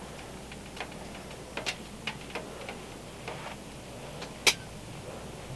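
Scattered sharp clicks and pops at uneven intervals, about seven of them, the loudest about four and a half seconds in, over a faint low hum.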